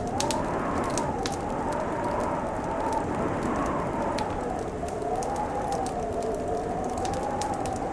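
Wood fire crackling with scattered sharp pops, over a steady howling wind whose pitch slowly rises and falls.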